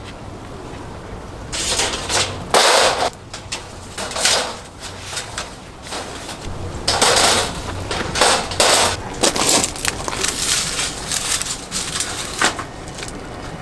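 Irregular handling noises of camp cookware: scattered clicks and knocks among longer rustling scrapes, the loudest about two and a half seconds in and again around seven to nine seconds.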